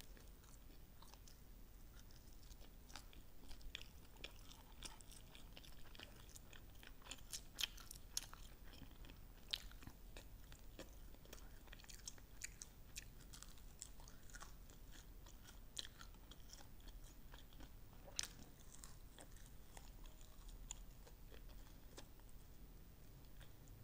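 Close-up chewing and biting of chicken wings, with scattered short, crisp crunches and clicks as meat is pulled off the bones.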